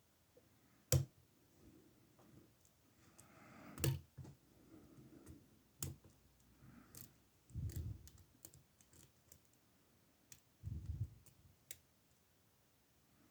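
Faint, scattered clicks and taps of lock picks working in the oval cylinder of an older ASSA Ruko brass and steel padlock, with a few dull low thumps of the lock being handled. The loudest are two sharp clicks, about one and four seconds in.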